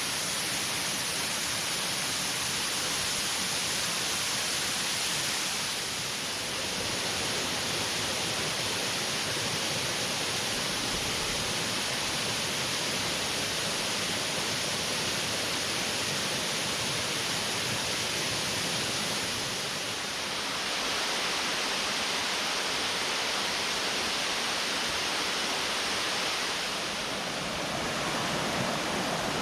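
Steady rush of water from the Luka mountain stream and its waterfalls, a dense, hissing roar of fast-flowing and falling water that dips slightly in level a few times.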